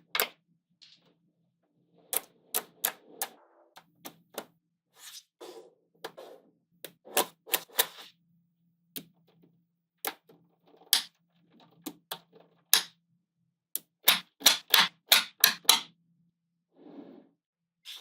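Small magnetic balls snapping together: sharp clicks in quick runs, the longest run near the end, with brief soft rattling as balls roll and slide against each other.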